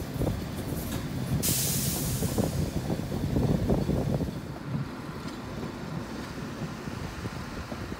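Fiat M4 diesel railcar running on narrow-gauge track, with a steady rumble of wheels and engine. About a second and a half in, a sudden burst of air hiss, typical of the air brakes, fades over a second or so. The running noise then drops as the railcar slows into a station.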